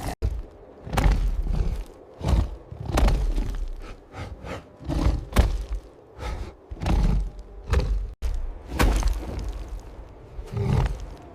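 A series of heavy thuds, each a sharp hit with a deep low boom under it, coming roughly once a second.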